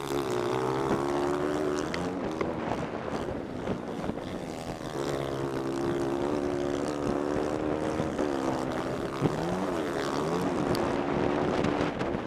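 Pit bike engine running at high revs, holding a steady pitch for long stretches. Around 2 s and again around 8 to 10 s the pitch drops and climbs back, as the throttle is rolled off and on again.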